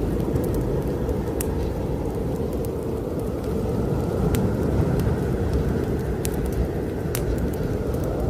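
Snowstorm wind blowing with a steady low rumble, a faint whistle swelling and fading around the middle, over a wood fire crackling in a fireplace with scattered sharp pops.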